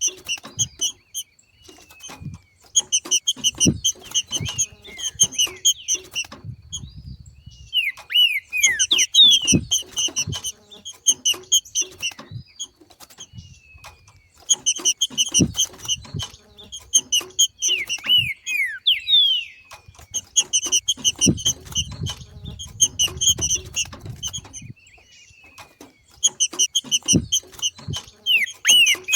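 Trinca-ferro (green-winged saltator) giving its 'macheado', repeated phrases of fast clipped chattering notes mixed with short downward-sweeping whistles, about five phrases a few seconds apart.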